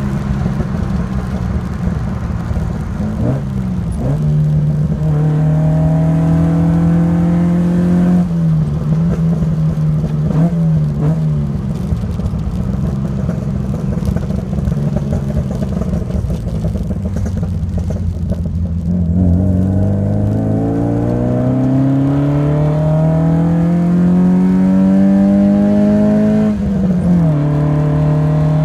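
Alfa Romeo Alfasud Sprint QV's 1.5-litre flat-four boxer engine running through a stainless steel exhaust under load. The engine note climbs steadily and drops sharply at gear changes, about eight seconds in and again near the end. In the second half there is a long, slow climb.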